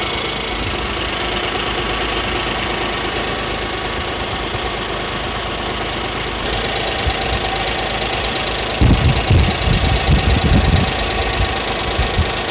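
Suzuki Jimny JA11's three-cylinder engine running steadily, a dense even noise. A few seconds of heavy, irregular low thumps come in about nine seconds in.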